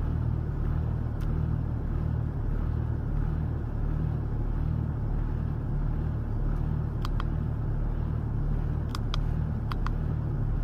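Car engine running with a steady low hum. A few light clicks come near the end.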